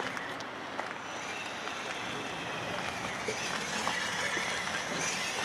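Steady outdoor city background hiss, with a few faint small clicks.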